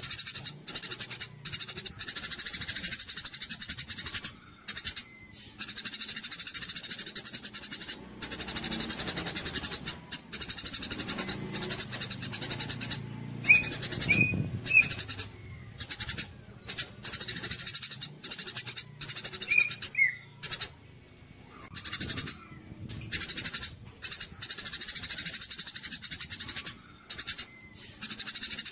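Small songbird singing rapid, high-pitched trills in bursts of a second to several seconds, broken by short pauses, with a few lower, separate chirps about halfway through.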